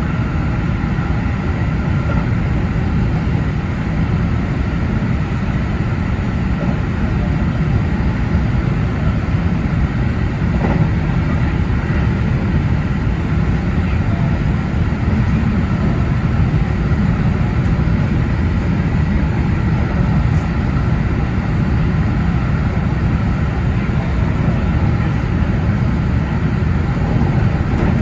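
JR 313 series electric train running at high speed, heard from the driver's cab: a steady rumble of wheels and running gear on the rails.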